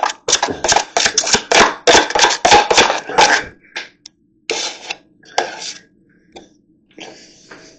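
A hand tool scraping and knocking rapidly through plaster mud, mixing dry plaster into the wet mix. There are a few more scrapes about four and a half and five and a half seconds in, and then it goes quieter.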